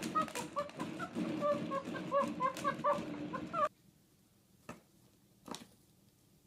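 A rapid series of short, pitched animal calls overlapping one another. They stop abruptly a little past halfway, leaving quiet with a couple of faint taps.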